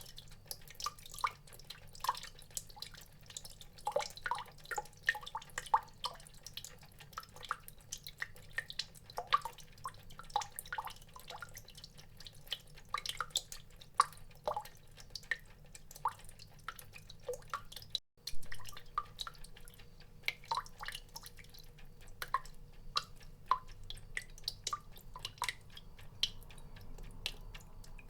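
Water drops dripping irregularly, several plinks a second, each a short, bright drop into water, over a low steady hum. The drops break off for an instant about two-thirds of the way through.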